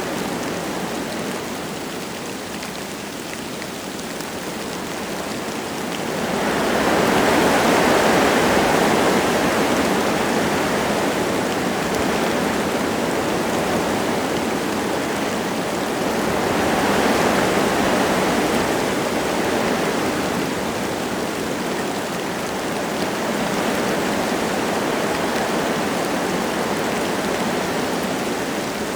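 Wind blowing through forest trees with light rain falling, a steady noise that swells louder in two gusts, about six seconds in and again around sixteen seconds.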